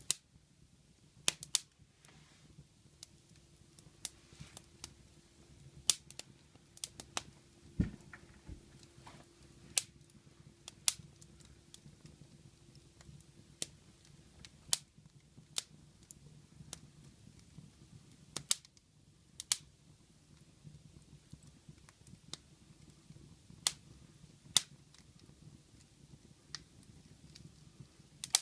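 Wood fire crackling in a fireplace: irregular sharp pops and snaps, often a second or two apart, over a low steady rumble.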